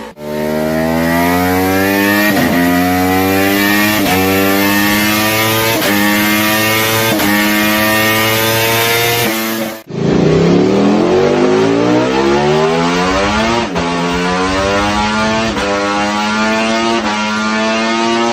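Ducati superbike engine at full throttle, accelerating hard up through the gears: its pitch climbs and drops back at each upshift, about every one and a half seconds. This happens in two separate runs, the second starting just under halfway through.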